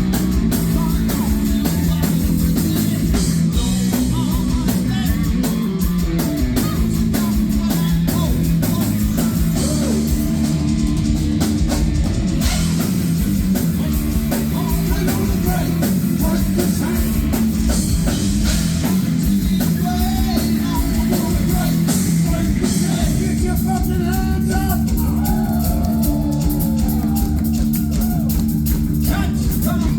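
Heavy metal band playing live: distorted electric guitars and bass over a drum kit, loud and dense throughout.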